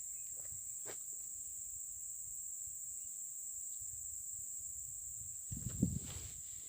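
Insects keep up a steady high-pitched drone, with a brief low rustling thump about five and a half seconds in.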